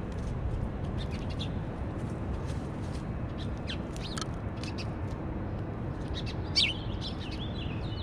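Small birds chirping in short, scattered calls, with one louder, wavering call about six and a half seconds in, over a steady low background noise.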